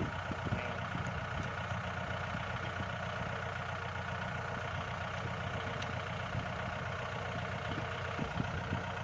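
Kubota L5018 tractor's diesel engine idling steadily, left running to drive a belt-driven water pump.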